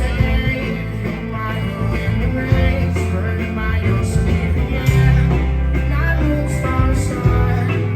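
Live rock band playing an instrumental passage, with electric guitar over held bass notes and drums.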